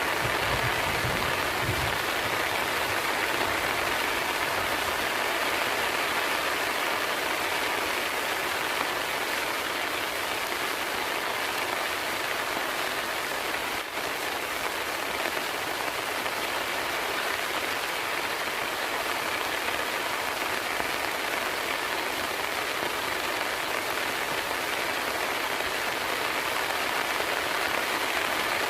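Heavy rain falling steadily, an even hiss with no let-up, with a brief low rumble in the first couple of seconds.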